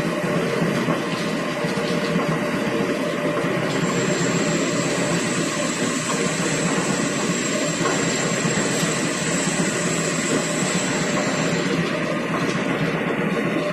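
Plate rolling machine running under power, a steady mechanical noise of its drive and rollers with a faint high whine that drops out for the first few seconds and again near the end.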